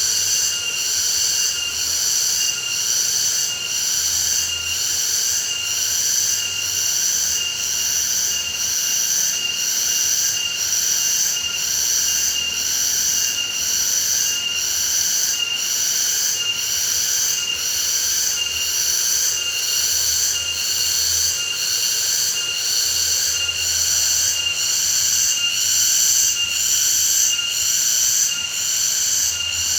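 Insects calling in a loud chorus: a high, shrill buzz pulsing evenly about one and a half times a second.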